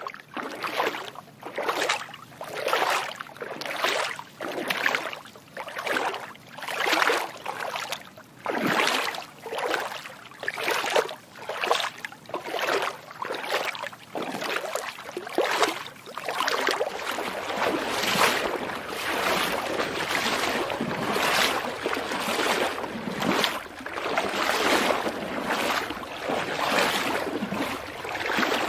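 Footsteps wading through shallow water. Each step splashes, at about one step a second, and about halfway through the splashes run together into near-continuous sloshing.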